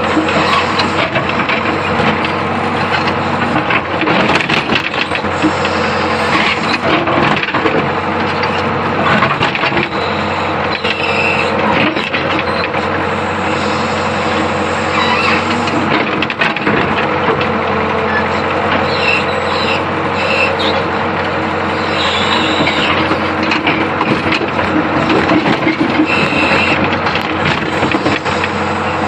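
Hitachi UH025 excavator running steadily, with frequent knocks and clanks from the working machine.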